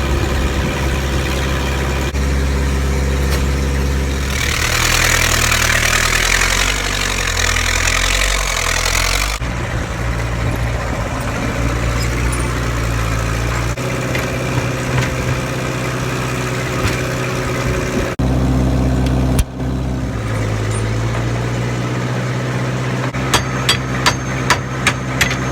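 Massey 50 tractor engine running at idle, its speed shifting up and down for a few seconds. Near the end comes a quick series of sharp clicks.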